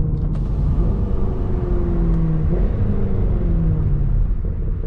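Mercedes C63 AMG's 6.2-litre V8 running as the car drives along, heard from inside the cabin with road noise beneath. The engine note dips about two and a half seconds in and eases down again near the end.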